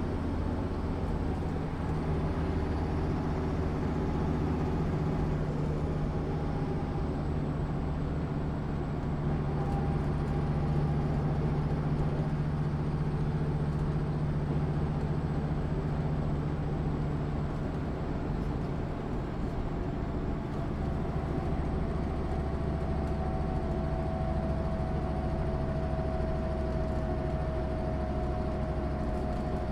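Diesel engine of a MAN SÜ 272 bus running steadily: a continuous low drone with a faint high whine above it.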